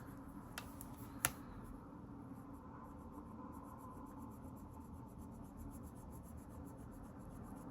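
Faint strokes of a pen colouring in on paper, with two light clicks in the first second or so.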